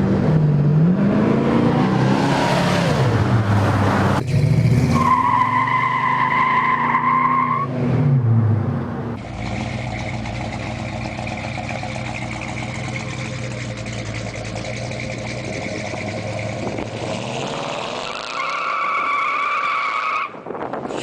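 A muscle car's V8 engine revving, its pitch rising and falling, with tires squealing in a long high squeal about five seconds in and again near the end. Between the squeals the engine runs more steadily.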